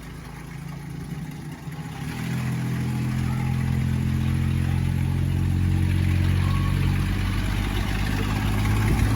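Ice cream truck's engine running with its music off: a steady low engine note that grows louder about two seconds in and holds.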